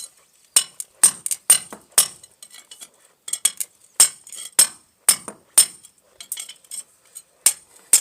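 Hammer striking a steel chisel, sharp metallic clinks coming irregularly in short runs, chipping out a hole to widen it for a 4-inch pipe.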